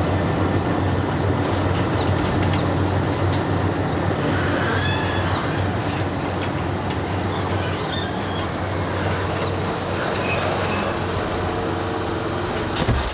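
Steady rumble of a road vehicle on the move, with low engine hum and road noise, and a few light rattles and squeaks.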